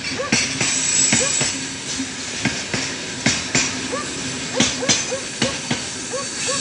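Loaded freight train of open gondola wagons rolling past close by as it gathers speed. The wheels knock over the rail joints in an irregular clickety-clack, about two to three sharp knocks a second, over a steady rolling rumble.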